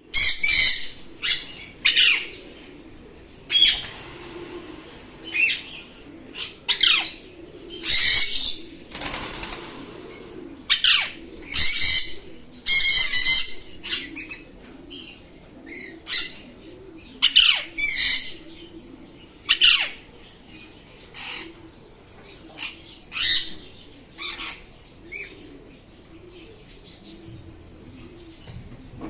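Parrot calling: many short, shrill calls at irregular intervals of about a second, several of them falling in pitch. About nine seconds in there is a second or so of rustling noise.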